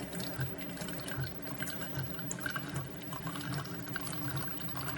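SiFENE 3-in-1 single-serve coffee maker brewing a K-cup on the medium setting: hot liquid streams and drips into the cup, with a low regular pulsing underneath.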